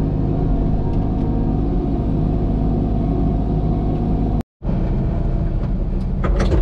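Diesel engine of a heavy earthmoving machine running steadily. The sound drops out completely for a moment about four and a half seconds in, then the engine carries on.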